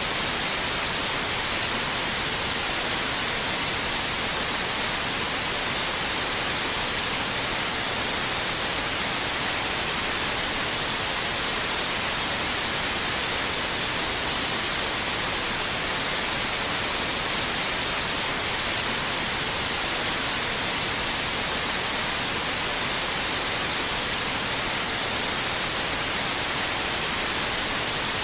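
Steady white noise: an even, unchanging hiss with its energy weighted toward the high frequencies.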